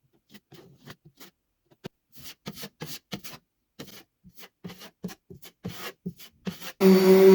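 Short, irregular rubbing and scraping strokes of a hand tool worked over a patched wall, as in prepping drywall holes for paint. Near the end a much louder steady hum starts abruptly.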